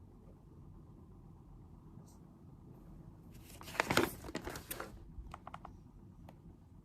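A brief crinkling rustle, like something crinkly being handled, starting about three seconds in and lasting under two seconds, followed by a few light clicks.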